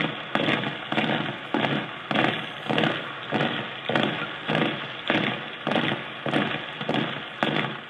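Percussion beat: sharp, noisy strikes in an even rhythm, about two a second.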